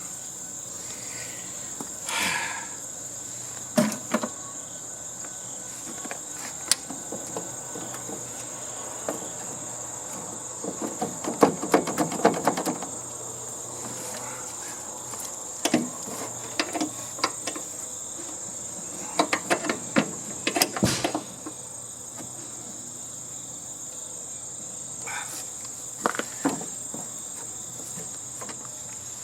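Crickets trilling steadily, a constant high-pitched chirr, under scattered clicks, knocks and rattles from hand work on a sheet-metal heating and air-conditioning unit being unscrewed and taken apart. The clatter is busiest about eleven seconds in and again around twenty seconds in.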